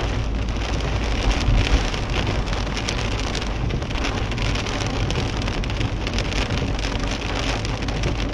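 Heavy rain drumming on a moving car's windscreen and roof, heard from inside the cabin as a dense patter of drops over a steady low rumble from the car on the wet road.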